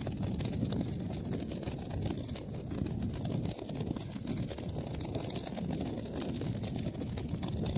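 Wood fire burning in a fireplace: a steady low rumble of flames with frequent small, sharp crackles and pops from the burning wood.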